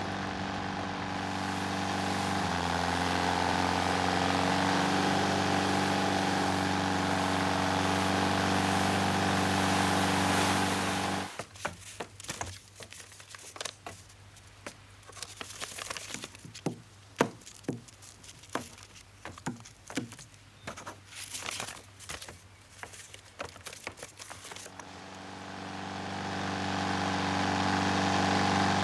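A motor vehicle's engine running steadily. It cuts out suddenly about eleven seconds in, leaving scattered clicks and crackles, and the engine sound builds back up near the end.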